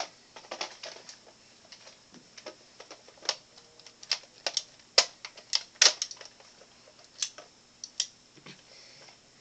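Irregular sharp clicks and taps of plastic being handled, as a Nerf blaster and its foam darts are picked up and shown.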